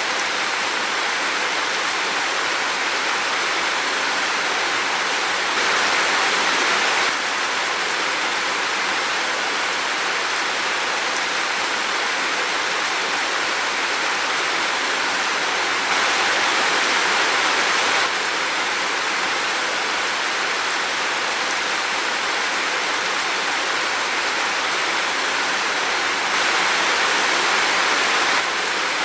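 Heavy rain falling as a steady, dense hiss, a little louder for a second or two three times.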